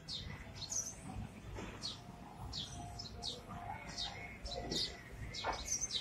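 Birds chirping: a quick run of short, high chirps, several a second.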